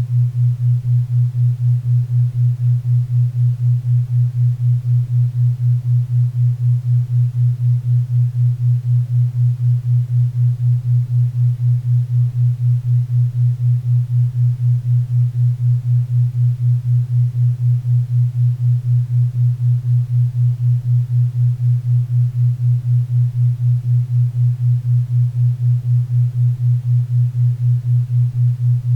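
Low steady tone pulsing about four times a second: a 4 Hz theta-wave beat tone, over a faint bed of pink and brown noise.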